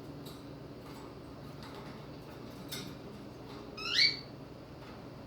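Albino cockatiel giving one short rising chirp about four seconds in, with a few faint soft ticks before it.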